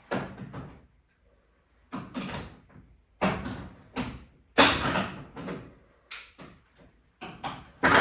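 Hand tools and sockets clattering as they are handled: a string of irregular clanks and scrapes, the loudest about halfway through.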